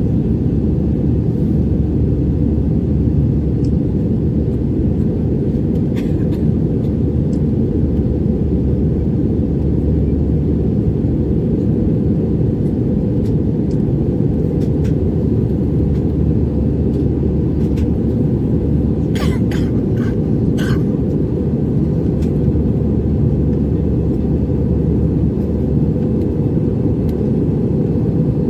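Steady low rumble of a jet airliner's cabin noise in flight, with a few short clicks about two-thirds of the way through.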